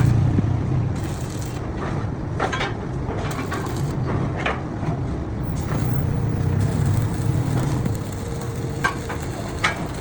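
Workshop machinery running with a steady low rumble, with a few sharp metallic knocks and clanks now and then and a faint thin tone near the end.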